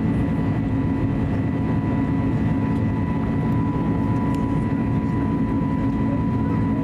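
Steady cabin noise aboard an Airbus A320neo with CFM LEAP-1A engines: a low rumble of engines and airflow with a thin steady whine on top.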